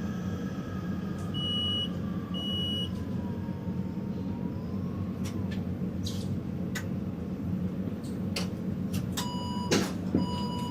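Taipei Metro Zhonghe-Xinlu line train running: a steady rumble with a motor whine that wavers and falls in pitch. Two short high beeps come about a second and a half in, and a string of evenly spaced lower beeps with a few clicks starts near the end.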